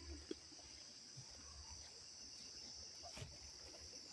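Faint, steady high-pitched chirring of an evening insect chorus, likely crickets, with a couple of soft clicks about a third of a second in and again near the end.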